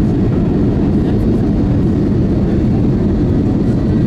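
Cabin noise inside an Airbus A320neo airliner during the landing: a steady, loud, low rumble of engines and rushing air with no sudden change.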